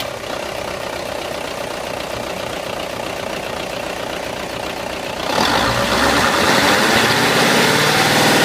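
Nissan Diesel Big Thumb truck's V8 diesel engine idling steadily, then revved up a little over five seconds in. Its pitch climbs over about two seconds and stays up.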